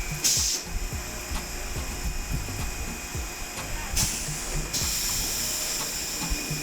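Old electric tram running along its track: low rumbling and knocks from the wheels and car body under a steady thin whine, with a short burst of high hiss near the start and another about four seconds in that then holds on.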